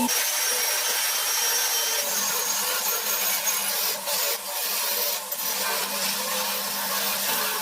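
Steady abrasive rubbing, like a part being sanded or scrubbed by hand, with a few brief breaks in the strokes around the middle.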